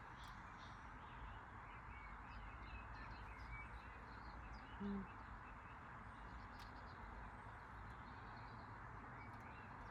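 Faint small birds chirping over steady outdoor background noise, with one short low hum about five seconds in.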